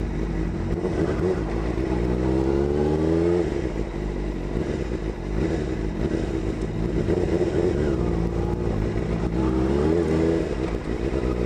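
Suzuki GSX-R600 inline-four motorcycle engine under way. It accelerates with rising pitch for about three seconds, drops sharply as it shifts up, and climbs again near the end.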